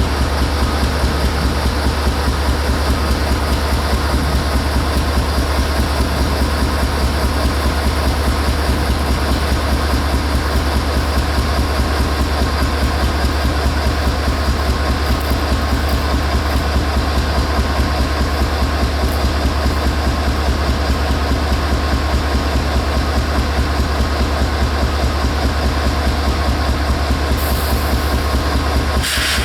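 Diesel locomotive idling with a steady, evenly pulsing low rumble.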